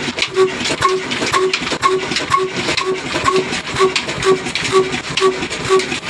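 24 hp Ruston diesel engine running at a slow, even beat of about two strokes a second, each stroke a short hooting note over mechanical clatter.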